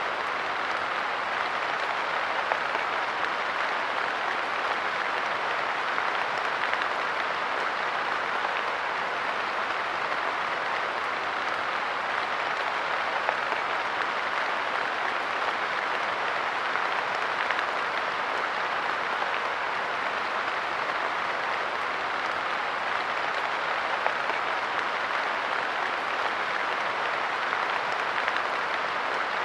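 Steady light rain pattering on a park bench, an even hiss of drops with small sharper taps scattered through it.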